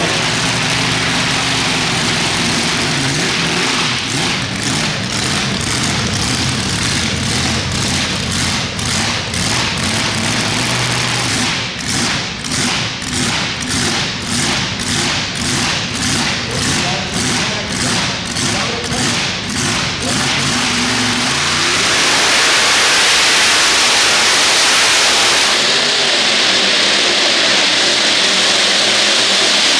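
A pulling tractor's engine running hard under load, its sound pulsing about twice a second for much of the run. After about twenty seconds the engine sound gives way to a loud, steady rushing noise.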